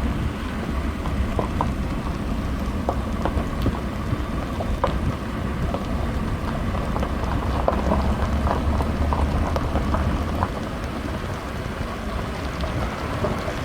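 Vehicle driving slowly up a rough dirt road: a steady low rumble with gravel crunching and scattered clicks and rattles.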